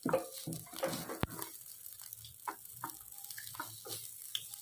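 Fried rice sizzling on a hot nonstick grill pan while it is stirred with silicone-tipped metal tongs, giving a steady light hiss broken by many short scrapes and taps of the tongs on the pan, with one sharp click about a second in.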